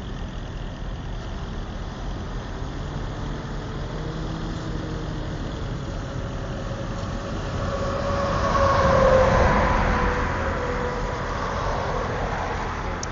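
Steady low rumble of vehicle engines, with a large vehicle passing close by: it swells with a whining tone, loudest about nine seconds in, then fades.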